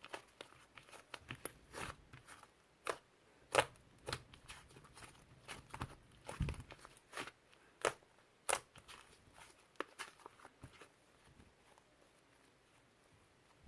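Soft, fluffy white clay slime being squeezed and pulled by hand, giving irregular small crackles and pops. The crackling thins out over the last few seconds.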